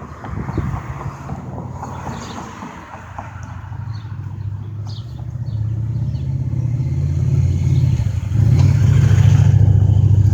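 A motor vehicle's engine running, growing steadily louder and loudest near the end.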